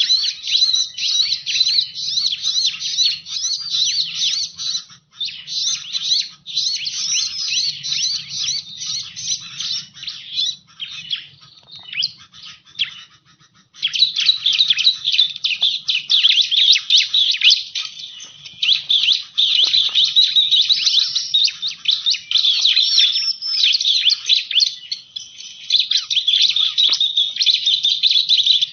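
Bar-winged prinia (ciblek) calling in rapid, high, chattering chirps that run almost without break, with a short lull a little before the middle.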